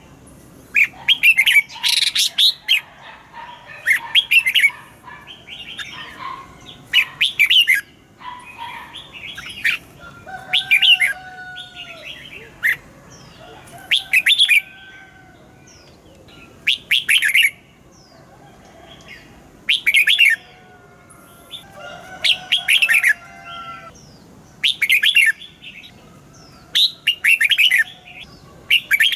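Red-whiskered bulbul singing: short, loud, whistled phrases repeated every two to three seconds, with softer warbling calls between them.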